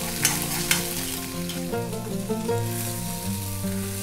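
Chayote peel and dried red chillies frying and sizzling in a kadai while a steel spatula stirs them, scraping and clicking against the pan twice in the first second. Background music of held notes plays underneath.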